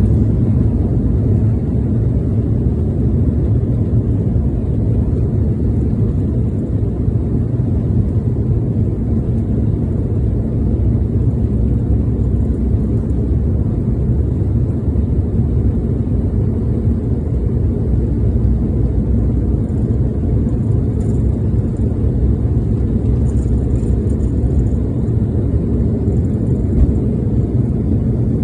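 Steady low rumble of an Embraer 175 airliner climbing after takeoff: its two GE CF34-8E turbofans and the airflow blend into one even, unchanging noise with no distinct whine.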